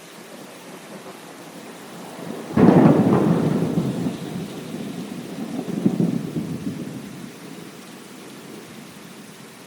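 Thunder over steady rain: a sharp crack about two and a half seconds in, rumbling on with a second swell around six seconds, then fading back to the rain hiss.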